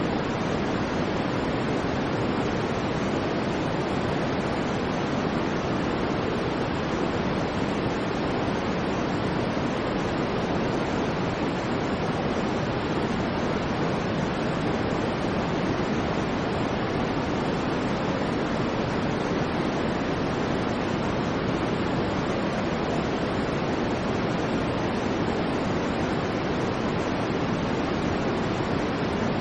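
Steady white-noise sleep track: an even, unchanging rush of noise with no swells or breaks, fuller and deeper than a bright hiss.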